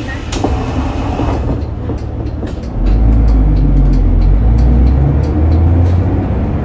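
Inside a city bus on the move: a brief air hiss near the start, then the bus's engine pulls harder from about three seconds in, with a deep low drone as it accelerates.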